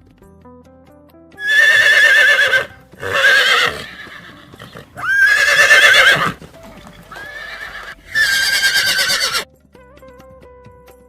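Horse whinnying: four loud, quavering calls, each about a second long, with a softer one between the third and fourth. Soft background music plays underneath.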